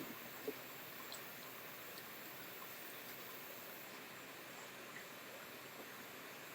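Quiet room with a steady faint hiss and a few faint small clicks, like light handling of kitchen things.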